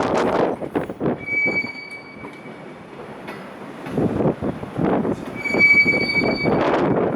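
Container freight wagons rolling past as the train arrives and slows, with two high-pitched steady squeals from the wheels or brakes, each lasting about a second, one about a second in and another near the end, over a noisy rumble.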